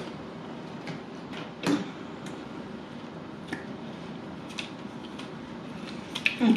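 Scattered light clicks and taps from eating and handling food and its packaging, over a steady room hum.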